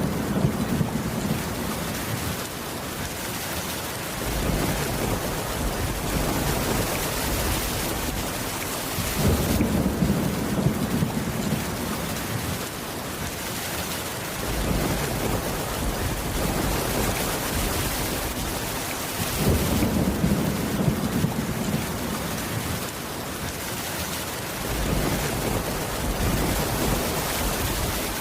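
Steady rain, with low rolls of thunder swelling and fading several times.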